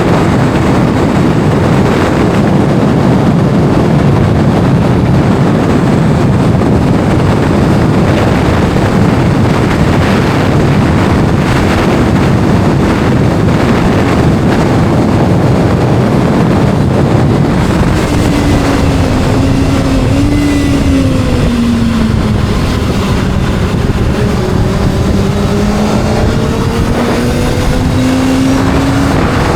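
Wind buffeting the microphone over a Kawasaki inline-four sportbike engine at speed. About two-thirds of the way in the wind eases and the engine note falls as the bike slows, then rises again as it accelerates.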